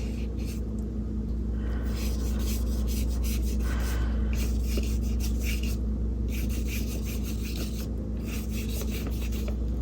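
Paintbrush scrubbing acrylic paint onto gesso-primed mixed media paper in many short, scratchy strokes, over a steady low hum.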